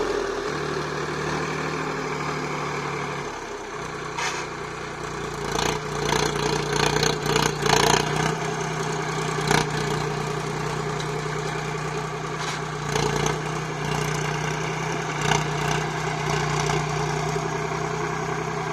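Sonalika DI 745 Sikander 50 hp tractor's diesel engine running at a steady speed while ploughing, with bursts of rattling and clanking from about four to ten seconds in and a few more knocks later.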